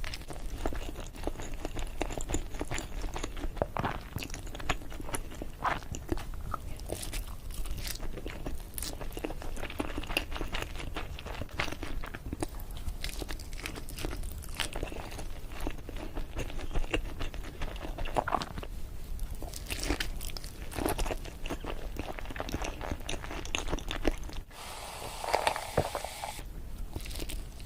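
Close-miked eating sounds: biting into and chewing sushi, with many small wet clicks and crunches. About 24 seconds in there is an abrupt change to a brighter, hissier stretch of chewing lasting about two seconds.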